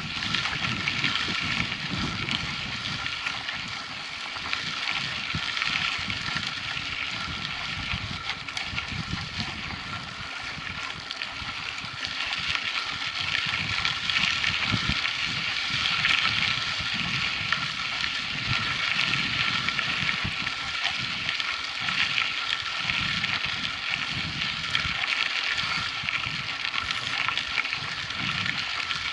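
Continuous rolling noise of a mountain bike being ridden on a dirt track, with an uneven low rumble of wind buffeting the microphone.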